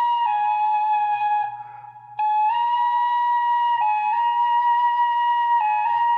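Celtic flute played solo: a slow melody of long held notes, with a short break for breath about a second and a half in before the tune resumes.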